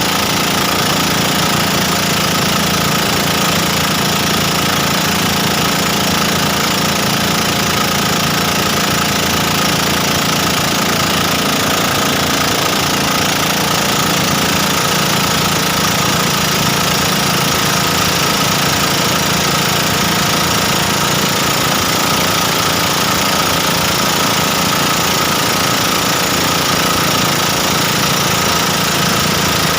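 Motorized bangka's engine running steadily, a loud constant drone with no change in pitch.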